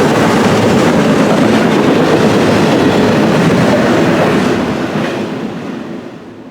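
Freight cars of a CSX intermodal train rolling past, their wheels on the rails making a steady noise that fades out over the last two seconds.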